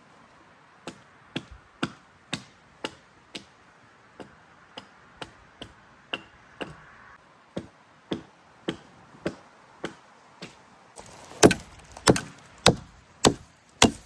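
Repeated chopping strikes into wood, about two a second, with the hardest strikes in the last few seconds.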